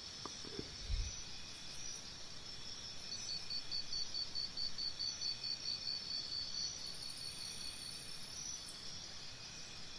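Faint, high-pitched insect chirping, pulsing about three to four times a second through the middle, over a low hiss. A soft thump about a second in.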